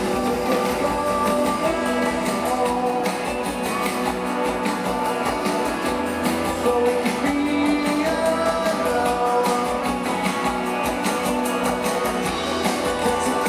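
Live rock band playing an instrumental passage led by guitars, with a steady full sound.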